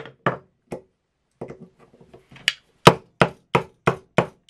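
Hammer blows on a metal rivet setter, driving a copper burr down onto a copper rivet through leather on a wooden block. A couple of light taps come first, then from about halfway a steady series of sharp strikes, about three a second.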